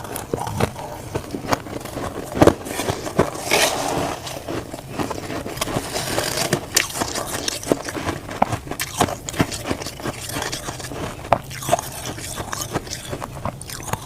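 Crunchy humidifier frost being bitten and chewed: a dense, irregular run of sharp crunches and crackles, busiest a few seconds in.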